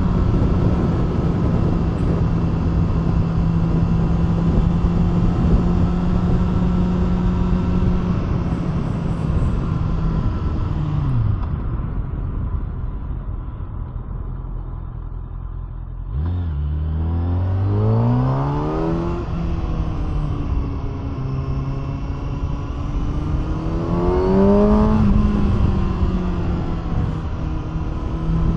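Kawasaki ZX-6R's inline-four engine through an SC Projekt aftermarket exhaust: it holds a steady cruise, then the throttle closes and the revs fall away for a few seconds. It then accelerates hard, the revs climbing, dropping at a gear change and climbing again near the end.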